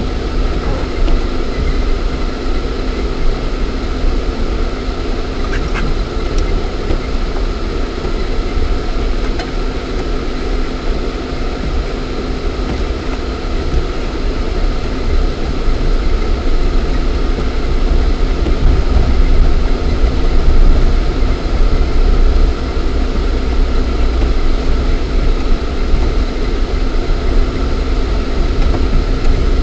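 Lada Niva 4x4's 1.7-litre four-cylinder engine and drivetrain running steadily while the car drives, heard from inside the cabin, getting a little louder about two thirds of the way through.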